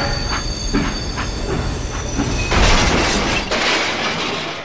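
Train wheels clattering over rail joints in a steady clickety-clack, then a loud crash about two and a half seconds in as the train hits the tractor and derails.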